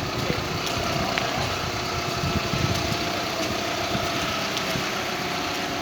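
An engine idling steadily, with a faint steady whine above the low rumble.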